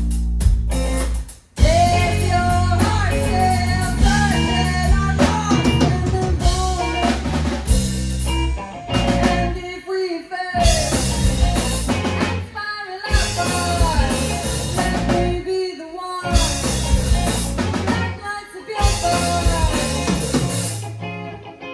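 Live rock band playing: drum kit, electric guitar and bass under a singing voice, with several short stops where the whole band drops out for a moment and comes back in.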